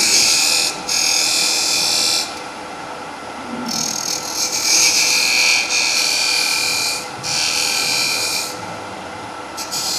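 Skew chisel cutting a bead in wood spinning on a lathe: a hissing cut in several passes of one to three seconds each with short breaks between, over the lathe's faint steady hum.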